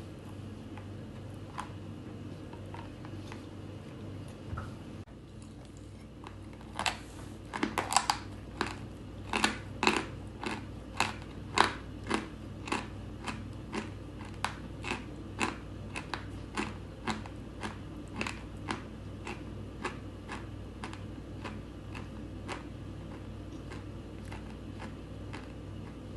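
A person chewing chalk close to the microphone. About seven seconds in, sharp crunches begin at about two a second; they are loudest at first, then gradually fade.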